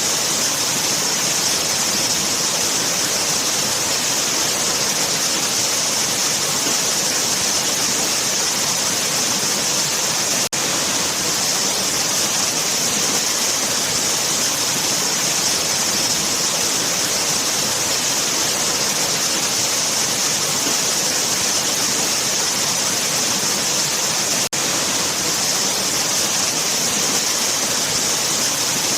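Waterfall, water falling in a steady, hissy rush, with two momentary dropouts about ten seconds in and again near twenty-five seconds.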